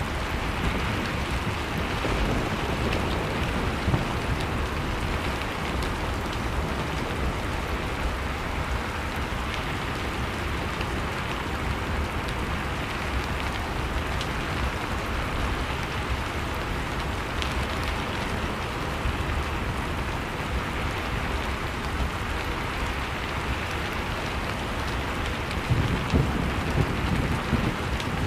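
Ambience of a crackling wood fire over blizzard wind: a steady rushing noise with faint scattered crackles. Near the end, a louder low rumbling gust.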